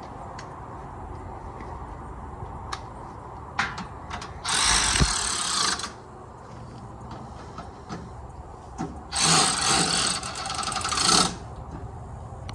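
A handheld power tool run twice, in bursts of about a second and a half and about two seconds, with light clicks and knocks of tool work between.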